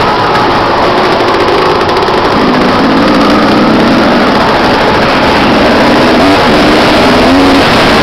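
Motocross motorcycle engines revving up and down, half buried in a loud, steady rushing noise.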